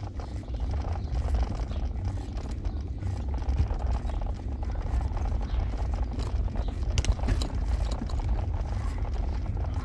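Car driving along, a steady low rumble of engine and road noise, with a few short sharp knocks or rattles about seven seconds in.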